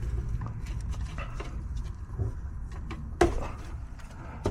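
Light handling clicks and one sharp knock about three seconds in, over a steady low rumble.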